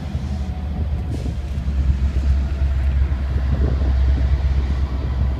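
Freight train rolling slowly through a grade crossing, a steady low rumble, with a faint thin steady tone above it.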